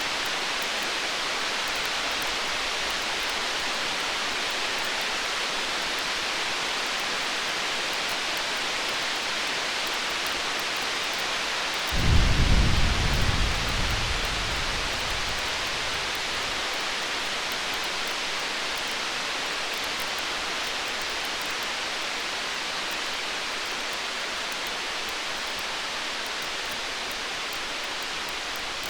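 A single roll of distant thunder about twelve seconds in: a low rumble that fades away over about four seconds, over a steady hiss.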